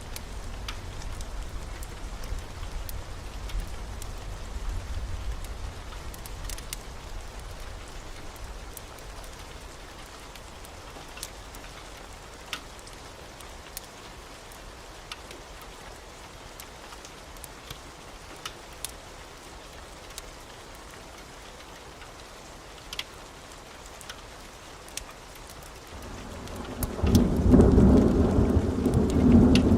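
Steady heavy rain, with a low thunder rumble fading away over the first few seconds and a wood fire in a fireplace crackling now and then. Near the end a loud roll of thunder builds and rumbles.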